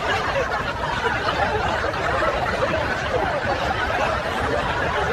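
People laughing and chuckling over a steady background of chatter.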